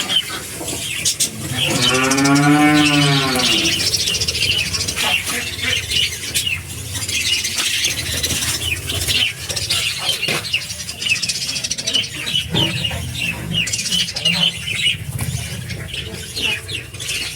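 Budgerigars chattering continuously in quick, high chirps. One long cow moo rises and falls about two seconds in.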